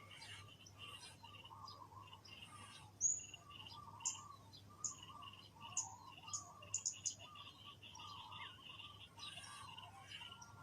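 Faint outdoor birdsong: a handful of short, sharp high chirps in the middle, the loudest about three seconds in, over a steady pulsing chirring and softer lower calls.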